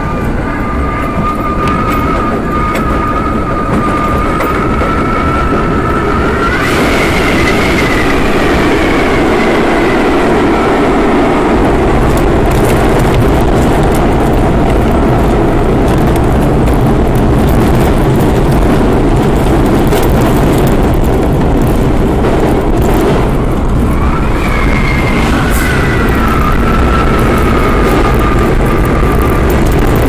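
R32 subway train running on the rails: a loud, steady rumble of wheels and car body with a whining tone from the traction motors and gearing. The whine climbs sharply in pitch twice, about a quarter of the way in and again past the three-quarter mark, then slides back down, with scattered sharp clicks from the track.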